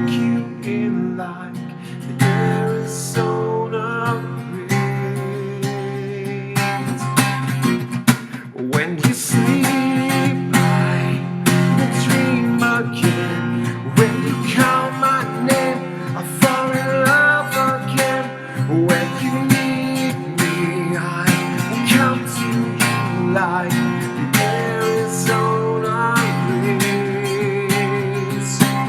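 Acoustic guitar strummed steadily in an instrumental passage of an acoustic pop-rock song, with a wavering melody line over the chords.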